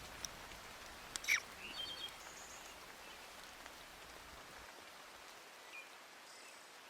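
Steady light rain falling, with a sharp falling bird chirp about a second in and a few faint, short high chirps after it. A low rumble underneath drops away a little past halfway.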